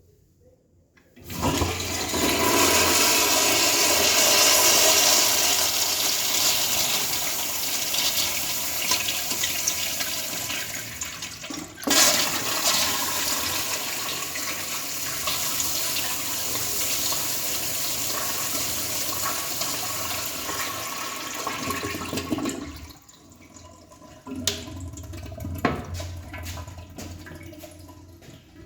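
A 1972 Kohler Kingston urinal flushing: water rushes in loudly from about a second in, is broken by a sharp click near the middle, rushes on, then drops to a quieter trickle with a few clicks near the end.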